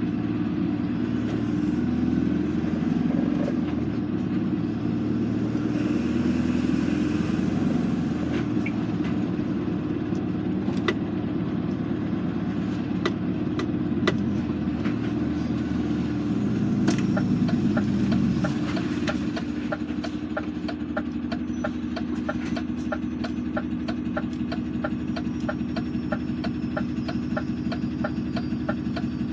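Truck engine running steadily. About two-thirds of the way in it swells briefly, then settles as a fast, regular ticking starts over the hum.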